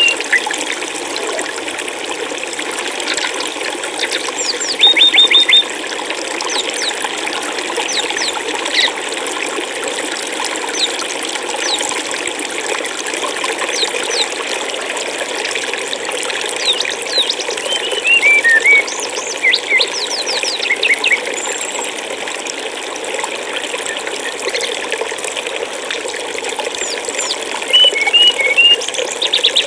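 Steady rushing of flowing water, with small birds chirping now and then: a quick run of high repeated notes about five seconds in, a string of falling chirps a little past the middle, and short chirps near the end.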